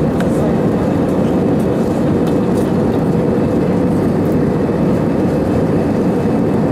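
Steady cabin noise inside an Airbus A319-112 under power: an even, unchanging drone of its CFM56 engines and airflow, with a faint steady hum running through it.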